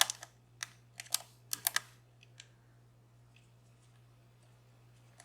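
Metal lock pick clicking and ticking against the pins inside a DOM Plura lock: a quick run of sharp clicks in the first two seconds, then a few faint ticks.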